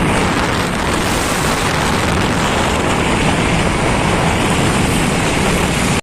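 Steady, loud rush of wind and road noise on the microphone of a moving motorcycle, with no distinct engine note standing out.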